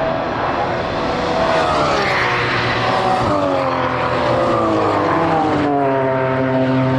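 Racing car engines at speed on the circuit: an engine note rises in pitch over the first couple of seconds, then falls away and levels off, over a steady low drone.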